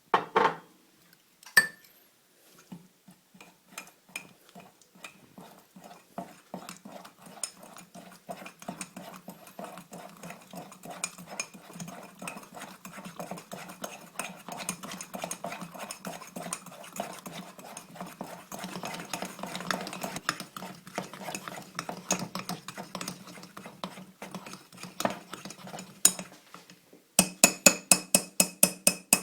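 Cake batter being mixed by hand in a bowl: a utensil clinks and scrapes against the bowl in quick, steady strokes for most of the time, after a couple of knocks at the start. Near the end come about two seconds of sharp, quick taps against the bowl.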